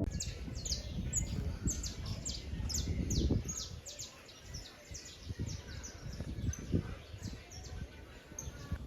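Birds chirping: a quick series of short, high, falling chirps, several a second, thinning out after about six seconds, over an uneven low rumble.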